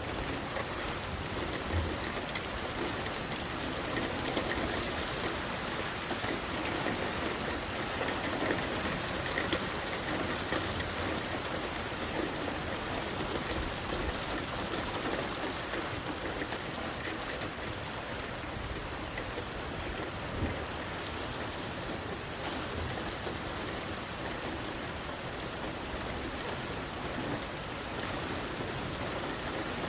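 Steady rain falling, with scattered drops pattering on surfaces close by.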